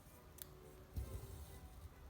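Faint handling sounds of hand embroidery: a small sharp click, then a soft knock about a second in, as the needle and thread are worked through the fabric.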